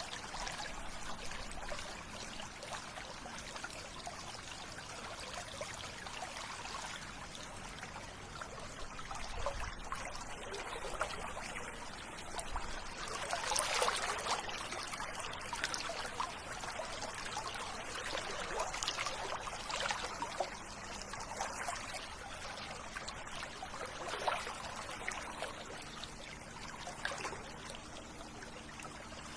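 River water flowing and trickling over stones, a continuous babbling that swells and eases every few seconds.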